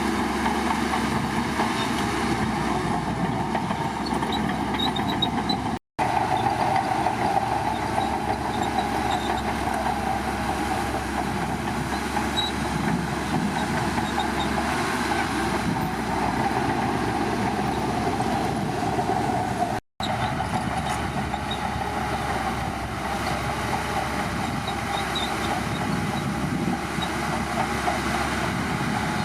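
Shantui crawler bulldozer's diesel engine running steadily under load, with a heavy mechanical clatter. The sound drops out to silence for an instant twice, about six seconds in and again near twenty seconds.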